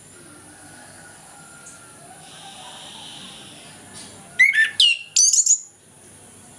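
Orange-headed thrush singing: two short, loud bursts of rapid sweeping whistled notes a little past halfway through, over a faint background.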